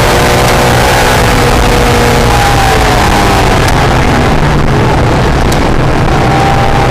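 Honda NSX's mid-mounted V6 heard on board at speed: the revs fall for about four seconds as the car slows, then climb again near the end as it accelerates, over loud wind and road noise.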